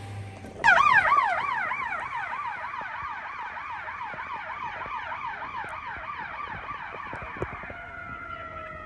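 Fire apparatus electronic siren cutting in on a fast yelp, warbling about three times a second. It is loudest as it starts and fades as the rig pulls away. Near the end it changes to a slower rising wail.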